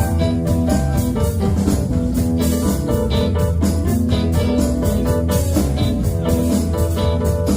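Live band playing: organ or keyboard chords over bass, guitar and a steady drum beat.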